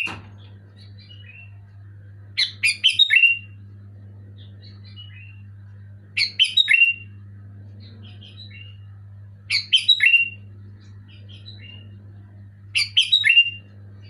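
Sooty-headed bulbul (kutilang) singing: four loud bursts of quick, chirpy whistled notes, one about every three and a half seconds, with softer single calls in between, over a steady low hum.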